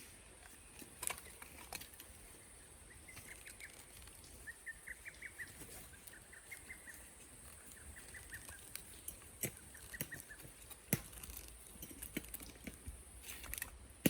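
A small bird singing in short phrases of rapid, repeated high notes through the middle. Scattered sharp clicks and knocks sound around it, with a steady high hiss underneath.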